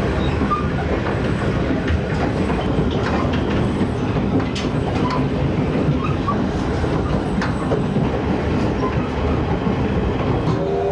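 Passenger coach rolling along the track, heard from inside the car: a steady rumble of wheels on rail with scattered sharp clicks.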